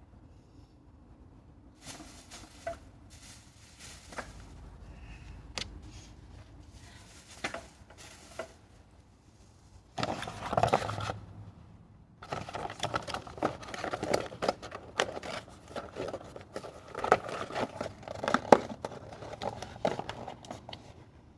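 Hands handling tools and parts: scattered clicks and rustles at first, a short louder scrape about halfway, then busy clicking, scraping and rustling.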